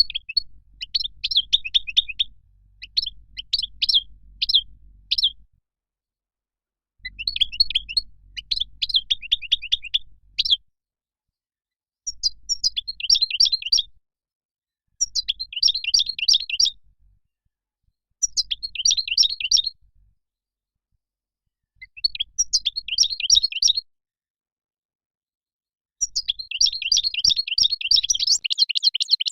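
European goldfinch singing: phrases of rapid twittering chirps and trills, each a second or two long, with short silent gaps between them; the last phrase, near the end, is longer and denser.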